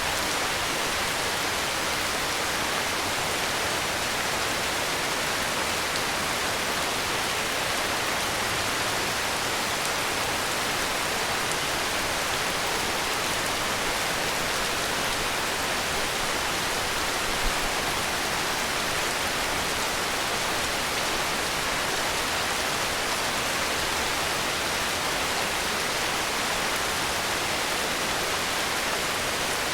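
Heavy rain falling steadily, an even hiss with no change in level. About halfway through there is one brief, faint low thud.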